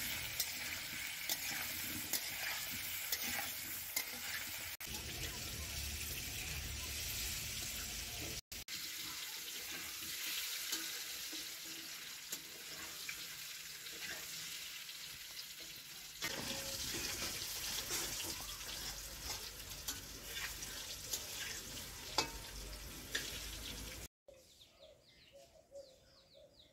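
Potato chunks frying in mustard oil in a metal kadai, sizzling steadily, with the scrape and clink of a metal spatula stirring them. The sizzling cuts off abruptly near the end.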